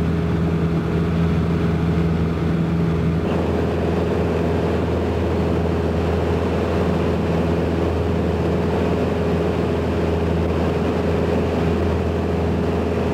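Small single-engine airplane's piston engine and propeller droning steadily in flight, with a slight change in tone about three seconds in.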